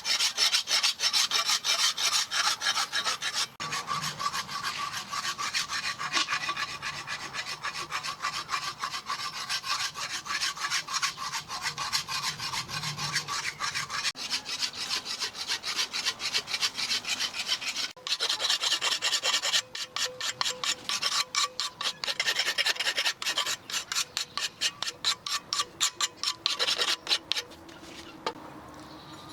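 Rapid back-and-forth hand strokes rasping against the steel of a machete blade, about three strokes a second. The strokes stop shortly before the end.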